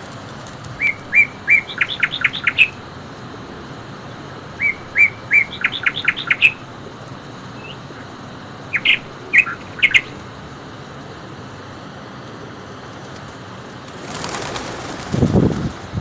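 A songbird singing: a phrase of three clear notes followed by a quick run of notes, given twice, then a few scattered notes, over a steady background hiss. Near the end a rushing, rustling noise with low thumps comes in.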